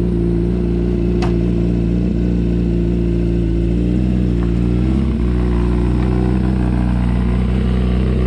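Vehicle engine running steadily at a constant speed, a low drone of even tones, with a single sharp click about a second in.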